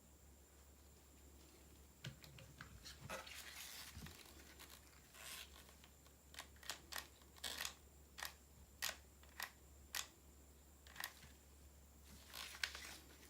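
Quiet handling noises: a string of sharp, separate clicks, with brief rustles around a second either side of them.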